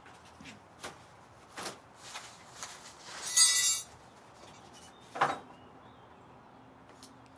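Scattered clicks and knocks of parts and tools being handled during assembly of an elliptical trainer, with a brief louder rattle about three and a half seconds in and a sharp knock about five seconds in.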